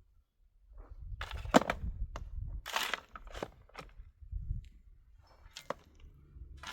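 Irregular crunches and sharp knocks, a few loud clacks among them, over a low rumble.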